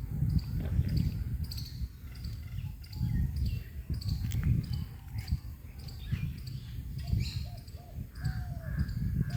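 Birds calling: crows cawing with a run of short, high chirps from smaller birds repeating about twice a second. A loud, uneven low rumble with dull thumps runs underneath.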